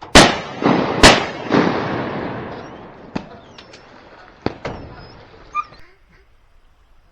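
Shotgun shots at flying waterfowl: two loud blasts about a second apart, with lighter shots between them and a long rolling echo that dies away over a few seconds. Several fainter shots follow.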